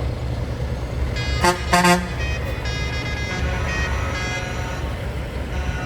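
Truck horns honking over a steady low engine rumble: two short, loud blasts about a second and a half in, with other horns sounding more faintly until a little past halfway.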